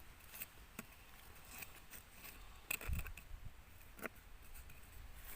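Scattered light clicks and scrapes of hand-foraging in dry soil and leaf litter, with one dull thump about three seconds in.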